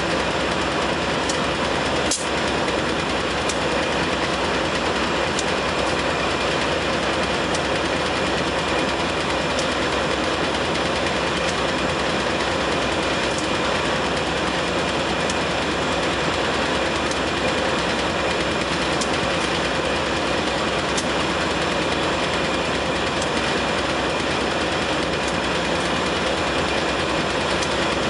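Container train's wagons rolling steadily past on the rails, a continuous even rumble with faint ticks roughly every two seconds and one sharper click about two seconds in.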